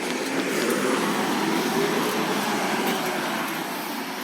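Recycling truck running: a steady mechanical drone that swells slightly about half a second in and eases off a little near the end.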